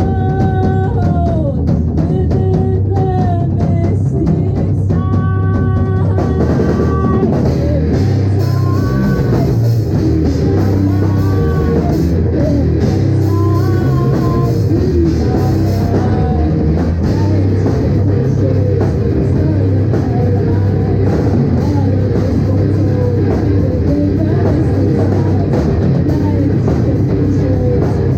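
Rock band playing live, with a drum kit and electric guitar.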